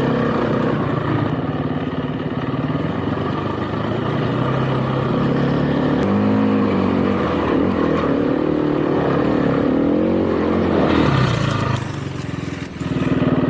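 Motorcycle engine running under way, its pitch rising and falling as the throttle is opened and closed, over steady road and air noise.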